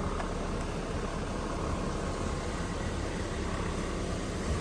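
Pickup truck driving along, a steady low engine and road rumble.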